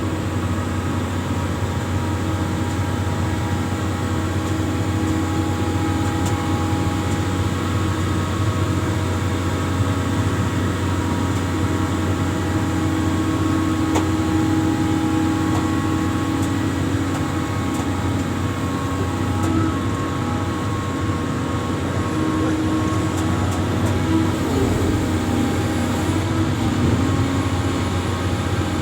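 Amphibious excavator's diesel engine running steadily, a constant loud drone with a steady hum.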